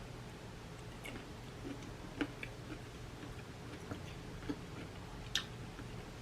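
Close-miked eating sounds of a seafood boil: scattered soft clicks and smacks of chewing and handling food, with one sharper click about five seconds in, over a faint low hum.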